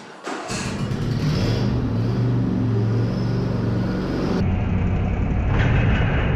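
John Deere D125 lawn tractor engine running steadily, starting about half a second in, with an abrupt change in the sound about four and a half seconds in.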